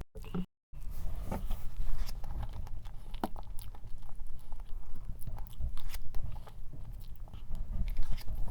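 Close-miked eating of strawberry cream cake: chewing and biting with many small wet clicks. The sound cuts out twice right at the start.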